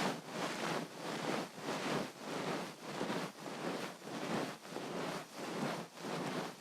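Ear pick scraping and rubbing inside an ear, heard very close up in repeated strokes of about two a second.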